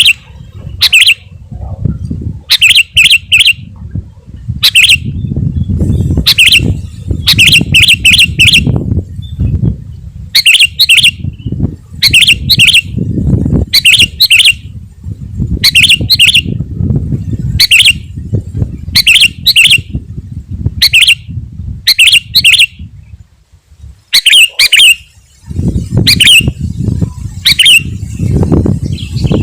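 Sooty-headed bulbul calling: short, sharp notes repeated in bursts of one to four, over and over. A low rumbling noise sits beneath the calls and drops away briefly about three-quarters of the way through.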